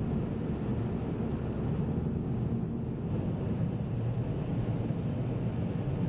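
Car driving on a snowy, icy road: a steady low drone of engine and tyre noise.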